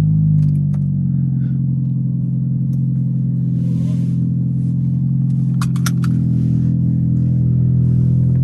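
Tuned turbocharged car engine just fired up, its start-up flare settling within the first second into a steady idle. A few sharp clicks come about six seconds in.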